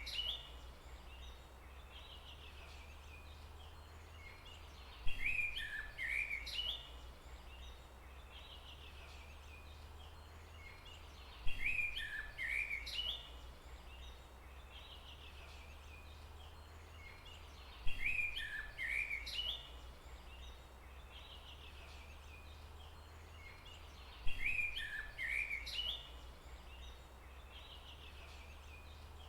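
A bird's short burst of chirping calls, each opening with a sharp click, repeating about every six seconds, four times, over a steady low hum.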